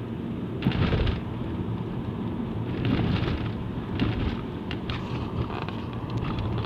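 Car driving on a highway: steady road and engine noise, with louder rushes of noise about a second in, around three seconds and again near four seconds.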